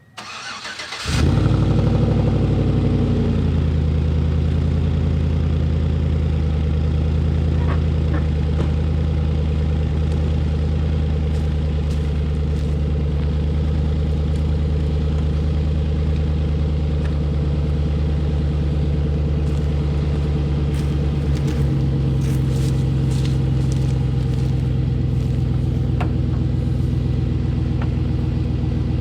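Pickup truck engine starting: a short crank, catching about a second in with a rev that falls away over the next two seconds, then settling into a steady idle.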